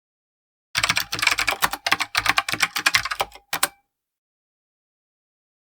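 Rapid clattering of typing keys, a dense run of clicks lasting about three seconds, starting about a second in and stopping short.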